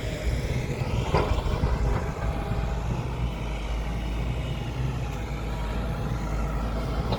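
Engine running steadily at a low, even pitch, with a brief knock about a second in.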